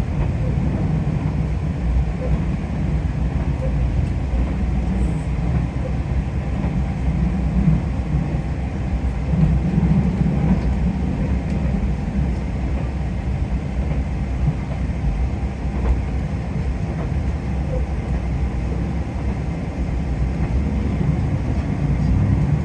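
Cabin noise inside a 2000 series diesel railcar on the move: the engine's low drone and wheels on rail make a steady rumble, with faint clicks from the track.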